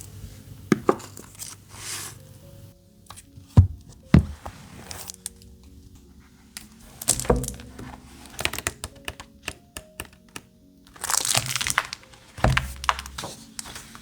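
Handling of paper and craft materials: a few sharp taps and knocks, with a second-long rustling burst about eleven seconds in, over soft background music.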